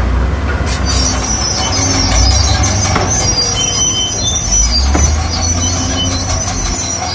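Heavy earthmoving machine working: a low diesel engine rumble, with high metallic squealing and screeching that starts about a second in and keeps on.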